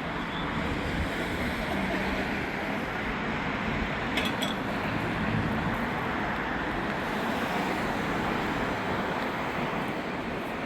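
Monster truck engine running, half buried in a steady rushing noise, with a short click about four seconds in.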